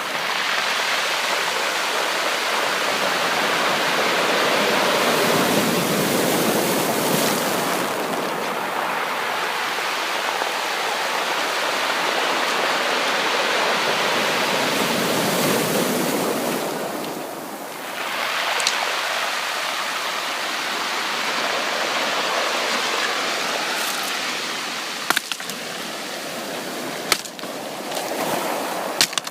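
Sea waves washing in: a steady rushing of water that swells and ebbs, dropping off about seventeen seconds in before the next wave surges. A few sharp crackles near the end.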